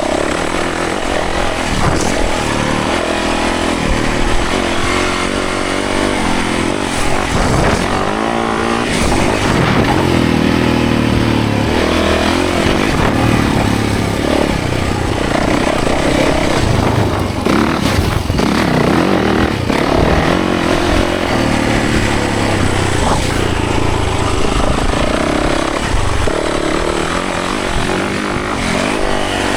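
Yamaha 450 single-cylinder four-stroke dirt bike engine running hard on a trail, its pitch repeatedly rising and falling as the throttle opens and closes and it shifts gears.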